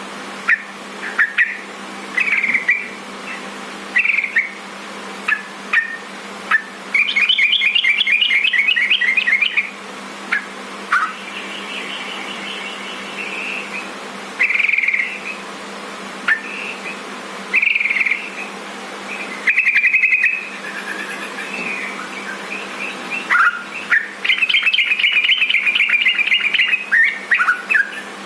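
Sooty-headed bulbul (trucukan) singing: short bubbly phrases with pauses between, and twice a longer run of rapid repeated notes. A faint steady low hum lies underneath.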